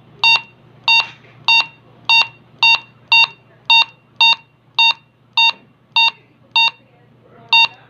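Key beeps from a Versa dual-band handheld radio as its keypad button is pressed over and over to scroll through the menu's step settings. The short high beeps come about two a second, with a brief pause near the end.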